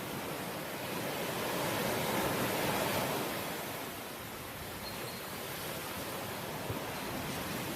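Ocean waves breaking and washing on the shore, a steady surf noise that swells to a peak about two to three seconds in and then eases back.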